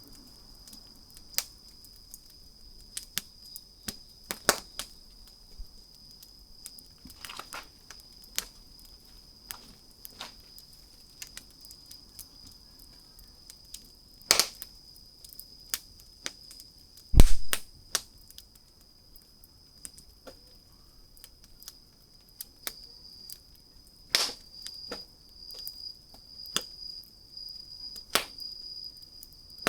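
Wood fire crackling, with irregular sharp pops and snaps from the burning logs. A steady thin high-pitched tone runs underneath, and a single dull low thump comes about two-thirds of the way in, the loudest sound here.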